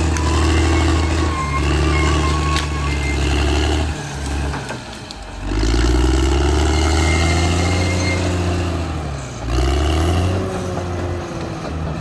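Caterpillar D6R XL bulldozer's diesel engine working under load. Its pitch dips and recovers about four seconds in, and again a little past nine seconds.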